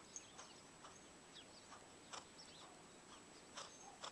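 Near silence outdoors: scattered faint chirps of small birds calling in the distance, with a few soft clicks.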